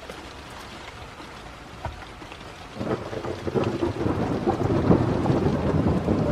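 Rain falling steadily, then from about three seconds in a low roll of thunder builds and grows louder.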